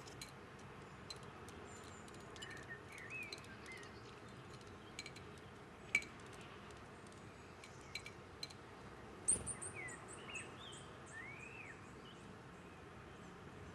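Songbirds at a window feeder: frequent sharp ticks and taps, with a few short chirps twice and a quick run of high ticking calls about two-thirds of the way through, over a steady hiss.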